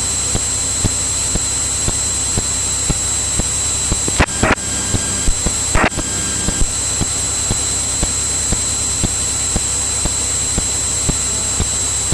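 Cirrus single-engine piston airplane's engine and propeller droning steadily, heard from inside the cabin. Two short crackles break in about four and six seconds in.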